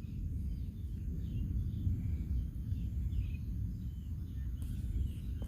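Outdoor ambience after a storm: a steady low rumble with faint bird chirps scattered throughout.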